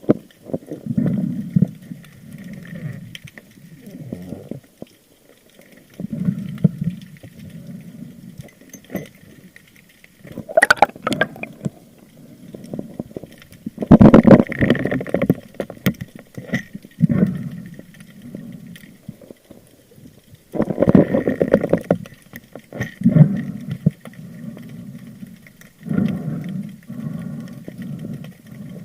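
Water sloshing and gurgling around a waterproof camera at sea, in irregular bursts every few seconds; the loudest come about halfway through and again about two-thirds of the way in.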